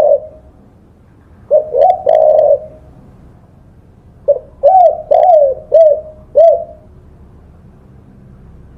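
Spotted dove (tekukur) cooing: a phrase of about three coos around two seconds in, then a longer phrase of five coos between about four and seven seconds in.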